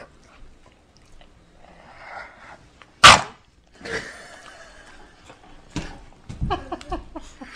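A bulldog snoring and snorting in a run of uneven, noisy breaths. One very loud, sudden burst comes about three seconds in, and a cluster of short grunting sounds follows near the end.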